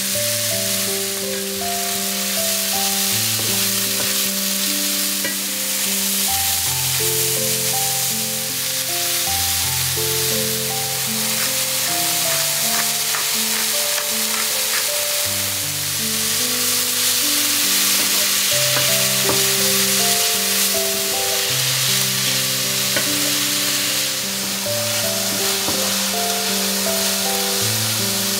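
Sliced onions and mushrooms sizzling as they fry in a pan, stirred with a wooden spatula. Background music of slow, held notes plays throughout.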